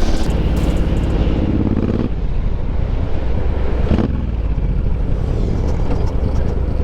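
Suzuki M109R's V-twin engine running as the motorcycle rides along, with a heavy low rumble of wind and road noise. About two seconds in the engine note drops and its higher tones fade, and there is a single sharp click near four seconds.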